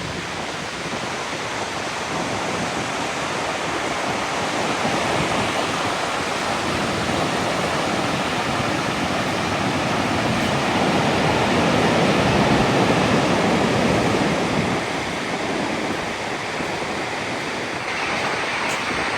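Steady rushing water, swelling a little near the middle.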